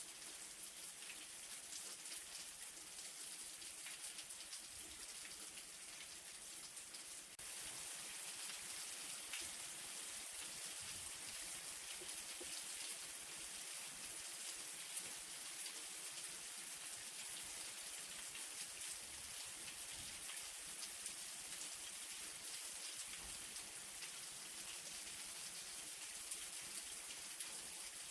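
Light rain falling steadily: a soft, even hiss filled with many small drop ticks. The level steps up slightly and abruptly about seven seconds in.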